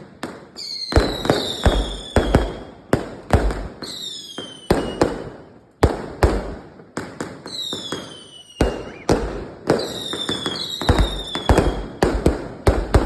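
Fireworks going off: a rapid string of sharp bangs, with four whistles that slide down in pitch, each lasting a second or two.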